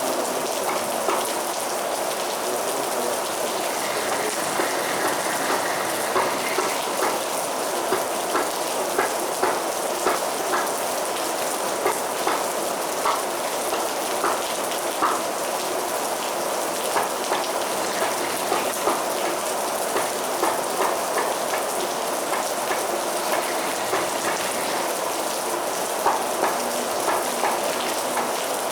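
Heavy rain falling steadily, a constant hiss with frequent sharper drop impacts scattered through it.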